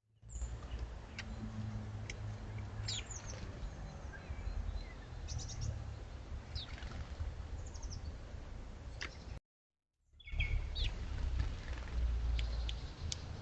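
Small garden birds giving scattered short chirps and a few quick falling calls over a steady low rumble. The sound drops out completely for about half a second around two-thirds of the way through.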